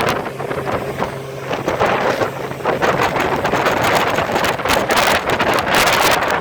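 Sea-Doo GTX 300 personal watercraft running through boat wake, with water splashing against it. Heavy wind buffets the microphone throughout.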